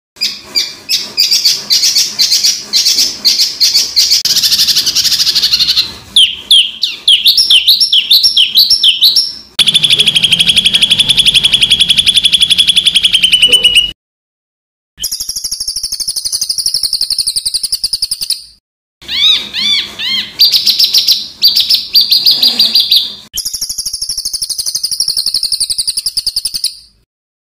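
Edited tutor track of songbird calls for training cage birds: fast, harsh trilled 'shot' bursts and quick rising whistled sweeps, in spliced segments that stop abruptly, with brief gaps of silence about halfway through, about two-thirds through and near the end.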